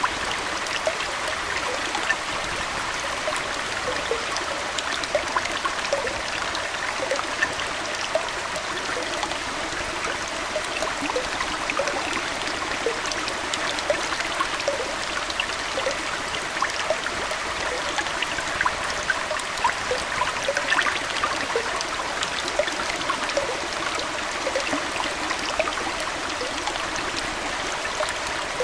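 Aquarium water flowing and trickling steadily, with many tiny drips and splashes over an even rush.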